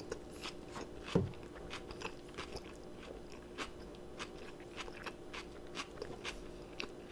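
Close-up chewing of a mouthful of elk burger with the mouth closed: soft wet clicks and smacks at an irregular pace, with one louder smack about a second in, over a faint steady hum.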